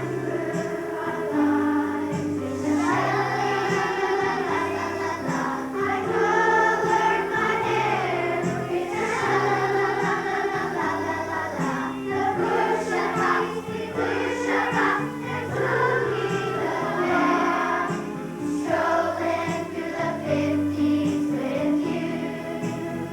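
Children's choir singing a song over instrumental backing with a steady bass line.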